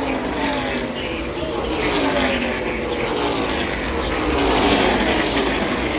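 NASCAR Truck Series race trucks' V8 engines at full speed, several passing one after another, each engine's pitch falling as it goes by.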